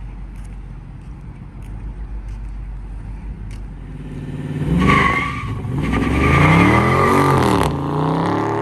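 Dodge Charger Scat Pack's 6.4-litre 392 Hemi V8 idling, then about four seconds in launching hard from a stop. Its note climbs steeply, drops briefly at a gear change, climbs again and falls off at the next shift near the end.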